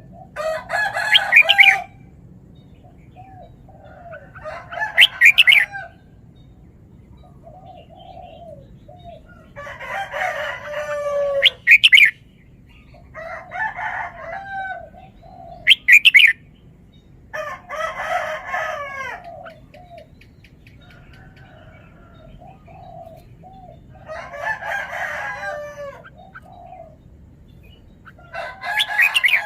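Red-whiskered bulbul singing: loud, short song phrases every few seconds, some warbled and some sharp and high, with softer notes in between.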